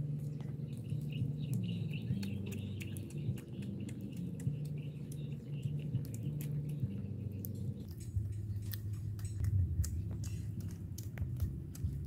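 Close-mic eating sounds: chewing with many small wet mouth clicks as grilled tilapia wrapped in rice paper is eaten, with faint bird chirps.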